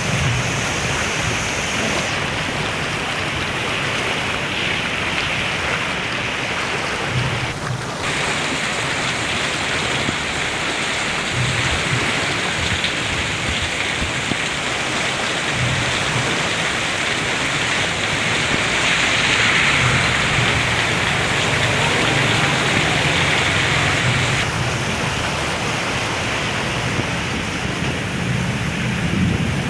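Heavy tropical rain pouring steadily and hard, with low rumbles of strong wind or distant thunder coming and going.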